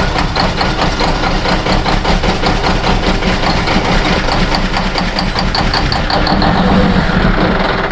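Diesel truck engine cranking over on the starter in rapid even pulses without catching, until the starter is released near the end. A cold, long-parked diesel that is slow to fire, not plugged in to warm.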